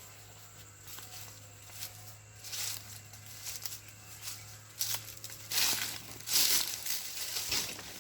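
Rustling and handling noises in irregular bursts, louder in the second half, over a steady low hum.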